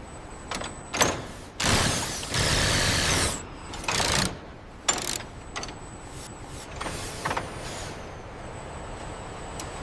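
Assembly-line machinery: long air hisses, the loudest from about one and a half to three and a half seconds in, and a shorter one around four seconds, with a few sharp clicks and clanks over a steady background.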